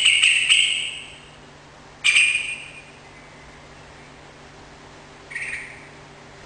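Yellow-vented bulbul (trucukan) singing: three short chattering song phrases, the first about a second long, the second shorter about two seconds in, and a fainter third about five seconds in.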